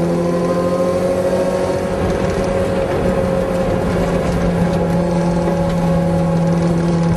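Toyota AE86 Corolla's four-cylinder engine heard from inside the cabin, pulling at steady revs on the track. The pitch holds nearly level throughout.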